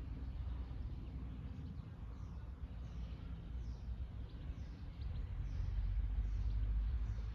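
A small bird repeating a short, high call that slides downward, about every two-thirds of a second. A low traffic-like rumble runs underneath and grows louder in the second half.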